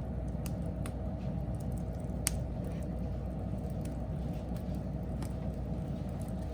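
Wood fire burning with a steady low rumble and scattered sharp crackles and pops, the loudest about two seconds in.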